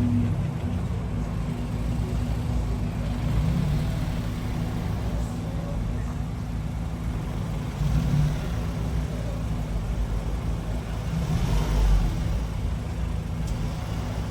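A car engine running close by, a steady low hum, swelling slightly about eight and twelve seconds in.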